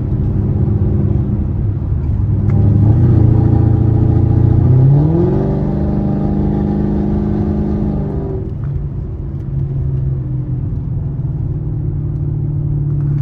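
Chevrolet Camaro SS's 6.2-litre V8 pulling under acceleration: the engine note grows louder, climbs quickly in pitch about five seconds in, holds for about three seconds, then eases off to a steady cruise.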